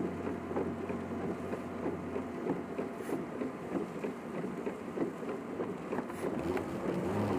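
Rain pattering on a car's body and windshield over the low steady hum of the car, heard from inside the cabin and sped up to double speed. The car's noise grows louder near the end.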